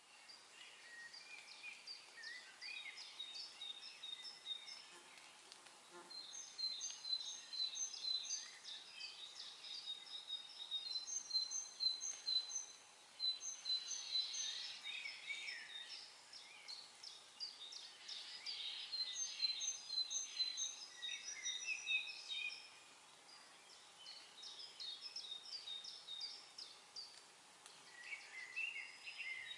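Several songbirds singing at once: many overlapping short chirps and whistled phrases. The singing thins out for a few seconds about three-quarters of the way through, then picks up again.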